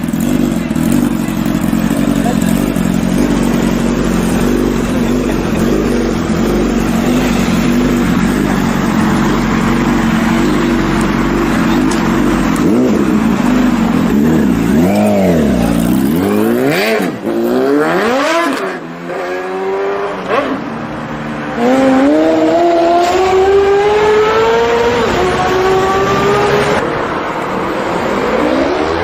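Sportbike inline-four engine running at a steady note, then revved up and down several times. It then pulls hard with the pitch climbing, dropping sharply at a gear change near the end and climbing again.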